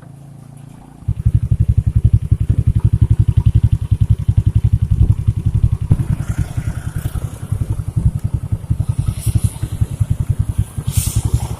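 Motorcycle engine running with a rapid, even pulsing, coming in suddenly and loud about a second in.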